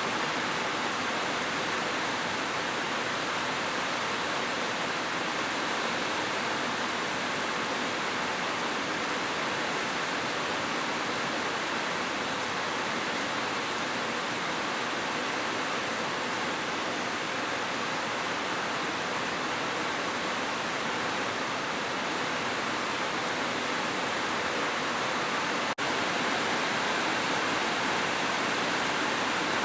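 Heavy rain falling steadily as a dense, even hiss. A split-second dropout in level near the end.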